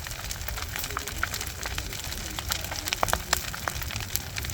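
Large bonfire burning well, crackling with frequent sharp pops over a low rumble, the pops bunching together a little after three seconds in.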